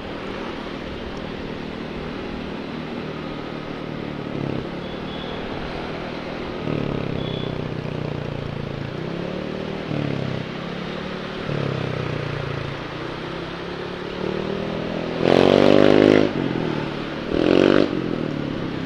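Motorcycle engine running on the move, its pitch stepping up and down several times with throttle and gear changes, with wind buffeting the microphone. Near the end come two short, much louder bursts, the first about a second long and the second a moment later.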